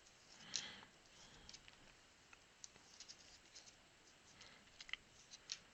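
Faint, scattered light clicks and soft brushing of football trading cards being handled and sorted by hand.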